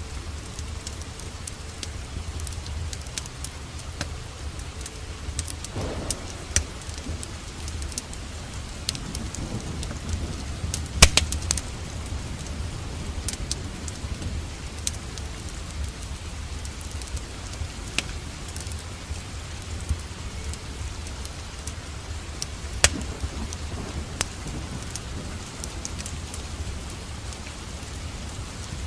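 Steady rain, with scattered sharp crackles and pops from a burning wood fire over it; the loudest pops come about 11 seconds in and again about 23 seconds in.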